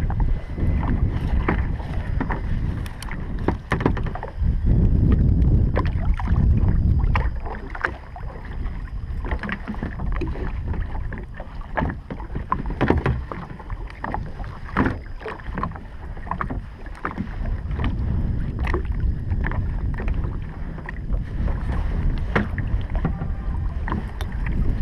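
Wind buffeting the microphone, heaviest for the first several seconds and again near the end, over scattered small knocks and clicks from a kayak as a trotline is pulled up and checked by hand.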